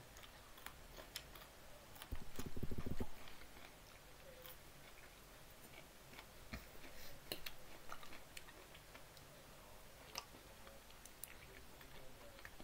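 Close-up chewing of food with soft wet mouth clicks, louder for about a second around two seconds in.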